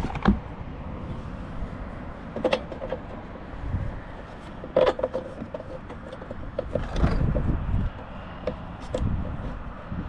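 Irregular metal clanks, knocks and scrapes of hand tools on boat hardware while a bolt is worked loose. Some strikes ring briefly, and there are louder clusters about 2.5, 5, 7 and 9 seconds in.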